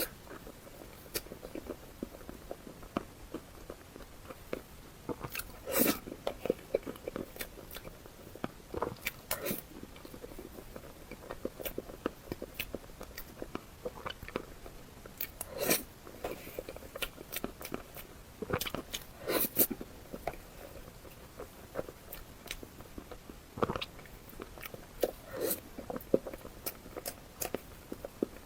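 Close-miked eating: a person biting and chewing food with crunching, made of irregular small clicks and a louder bite every few seconds.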